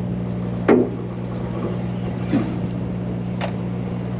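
Heavy diesel truck engine idling steadily, with three short knocks, the first and loudest about a second in.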